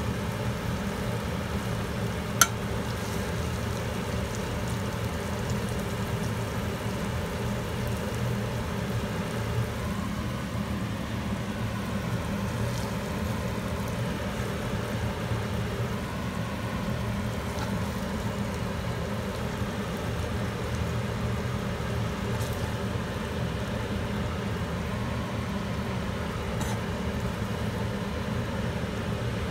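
Stovetop cooking noise: a steady low hum with a faint sizzle, broken by a few sharp clicks, one loud about two and a half seconds in.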